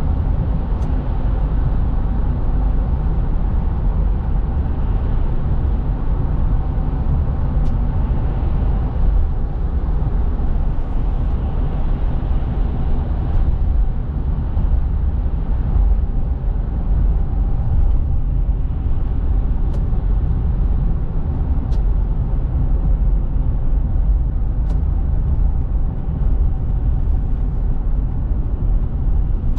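Car driving at steady speed: a continuous low road and engine rumble, with a few faint clicks.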